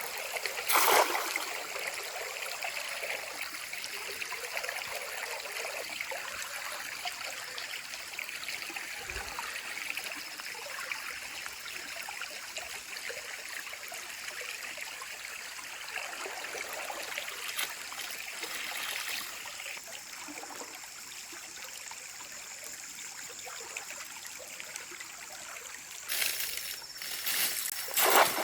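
Forest creek water trickling and running steadily, with a brief louder noise about a second in and a few more near the end.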